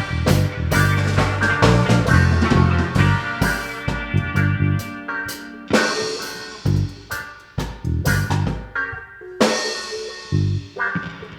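A band playing an instrumental passage without vocals: drum kit, bass and guitar, with the drum hits growing sparser near the end.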